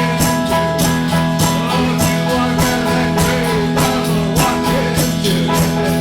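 Music: strummed guitar playing a song with a steady rhythm, with faint singing or a melodic line over it.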